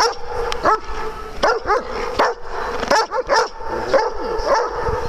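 Dogs barking and yipping in play, short high barks coming about two or three a second.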